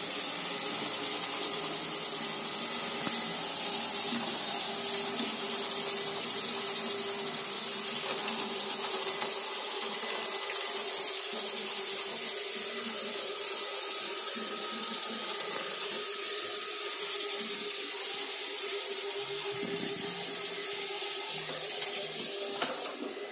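iLife V5s Pro robot vacuum running steadily: a constant hiss from its suction fan with a steady hum underneath. It gets a little quieter near the end.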